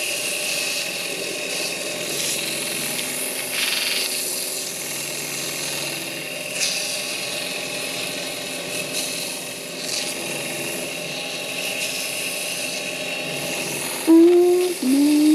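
Wood lathe running steadily while a tool works the spinning wood, with a few brief louder scrapes along the way. Music with a sung melody comes in near the end.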